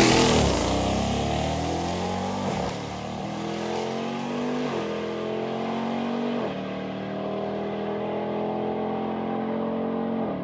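A V8 drag car running a quarter-mile pass at full throttle. The engine pitch climbs through each gear and drops sharply at about three upshifts, and the sound fades as the car pulls away down the track.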